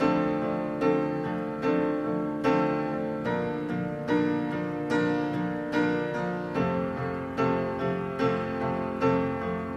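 Background piano music: slow, evenly paced chords or notes struck about once every 0.8 seconds, each ringing and decaying.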